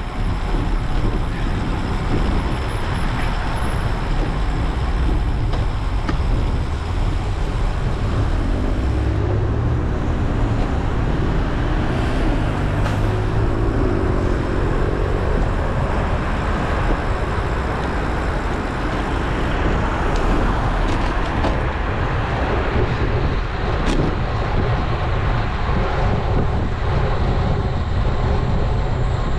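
Steady wind rush and road noise on a bike-mounted action camera's microphone while riding, heaviest at the low end, with motor traffic mixed in.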